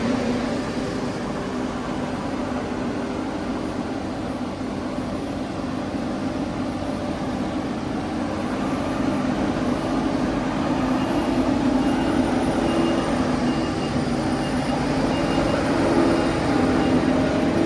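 Claas Jaguar 860 self-propelled forage harvester working through standing maize: its engine and the Kemper header running as a steady drone, getting somewhat louder in the second half. A few faint short high beeps sound near the end.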